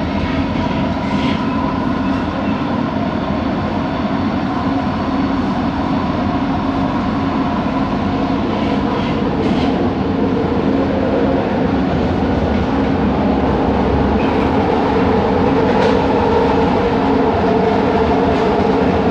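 Bombardier Innovia ART 200 train running between stations, heard from inside: a steady rumble of wheels on track with several steady motor tones over it, the hum of its linear induction motors. It grows slightly louder about halfway through, with a few faint clicks.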